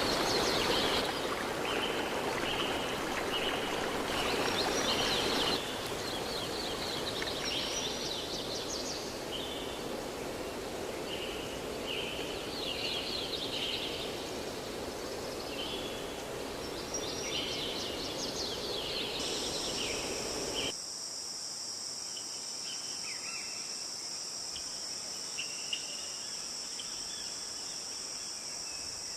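Running stream water with birds chirping repeatedly over it. About two-thirds of the way through, the water sound drops away abruptly and a steady high-pitched insect drone carries on with a few scattered bird chirps.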